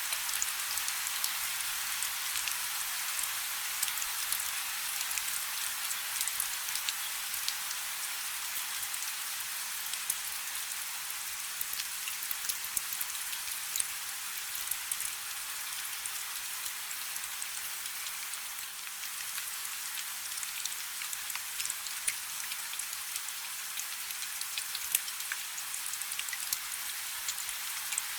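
Steady rain falling on a river's surface: a dense hiss of drops with many small sharp patters throughout.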